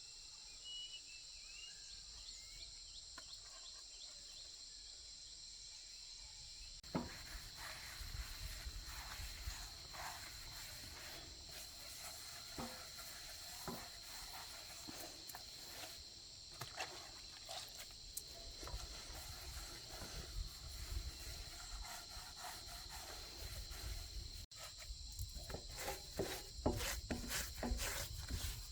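Steady high-pitched insect chirring, like crickets. From about a quarter of the way in, scattered clicks and knocks join it.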